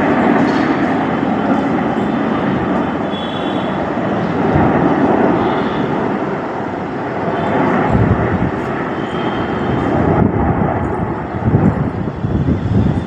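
Jet aircraft flying over, with loud, steady engine noise. A deeper, rumbling low end comes in from about two-thirds of the way through.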